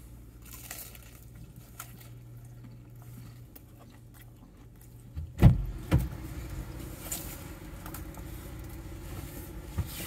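A man chewing a bite of deep-fried snack cake inside a car, with faint crinkling and small clicks and the car cabin's steady low hum. Two louder low muffled sounds come about five and a half and six seconds in.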